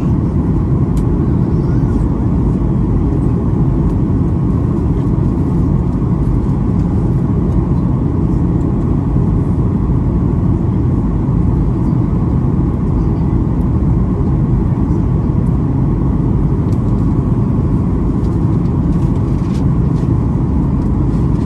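Boeing 737-800's CFM56 engines and airflow heard inside the cabin, a loud, steady low rumble on approach to landing.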